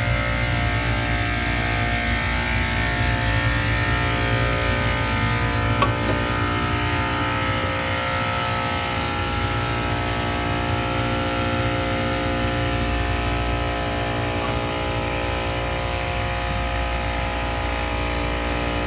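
HVAC unit's refrigeration compressors and condenser fan motors running steadily just after cycling on, a low hum with many steady tones. A single short click about six seconds in.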